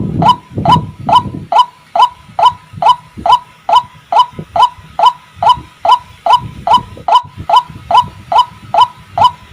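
White-breasted waterhen (ruak-ruak) calling, the same short harsh note repeated evenly about twice a second. A deeper rough sound runs underneath at the start and again around seven seconds in.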